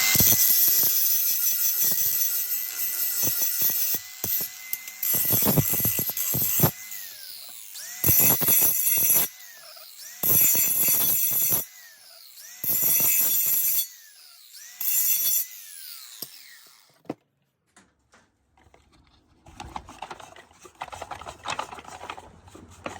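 A power tool working a steel exhaust pipe: one long run of about seven seconds, then four short bursts, its motor whine falling away each time it is let off. Near the end come light handling clatters.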